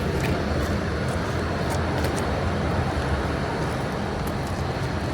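Steady low rumble and hum of electric trains at a station platform, with faint short clicks now and then.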